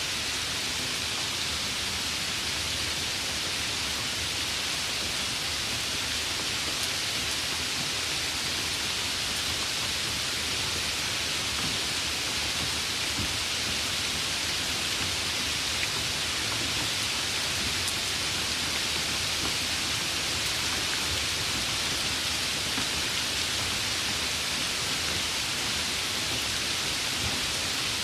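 Steady rainfall, an even hiss of rain falling without letting up.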